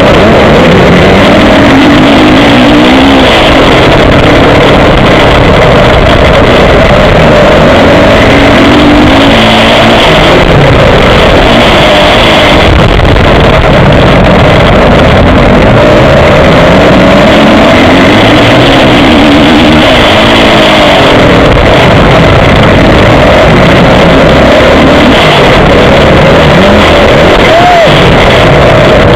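Motocross bike engine heard through an action camera mounted on the bike, loud and continuous, its pitch rising and falling again and again as the rider opens and closes the throttle.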